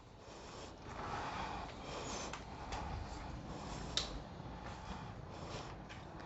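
Faint movement and handling noise from someone walking with a handheld camera, with a single sharp click about four seconds in.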